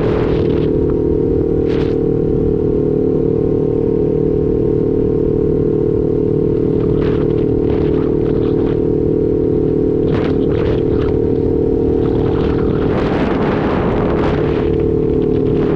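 Motorcycle engine running at a steady speed while riding, with gusts of wind noise on the microphone coming and going, the strongest near the end.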